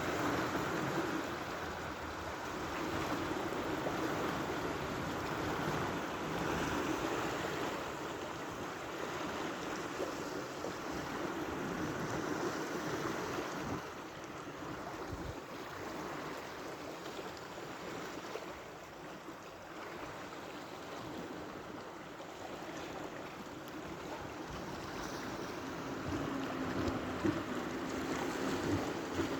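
Sea waves washing on the shore, a continuous rushing that swells and eases, with wind on the microphone. A steady low hum comes in near the end.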